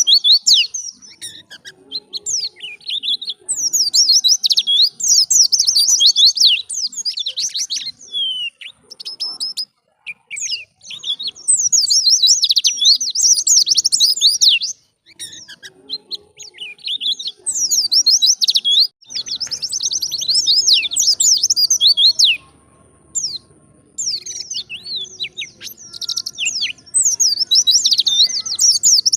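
White-eye (pleci) singing: long, rapid runs of high twittering chirps lasting several seconds each, broken by short pauses.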